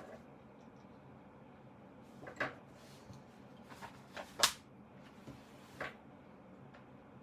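Handling sounds from work on a zippered synthetic-leather book cover being taken apart: a few separate short clicks and scrapes, the loudest about four and a half seconds in.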